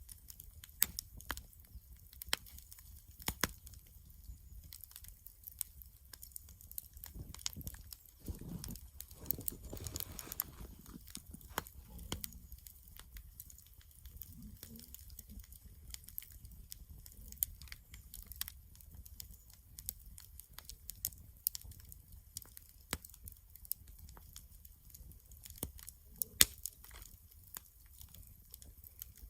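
Wood campfire crackling, with scattered sharp pops and snaps over a steady low rumble. About a third of the way in, a soft rushing swell lasts a few seconds.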